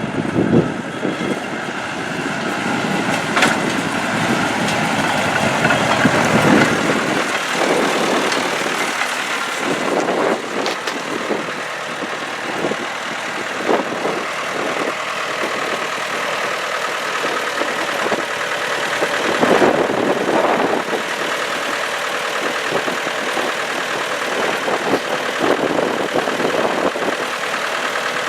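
1979 Massey Ferguson 285 tractor's diesel engine running steadily, growing louder a few times before settling back.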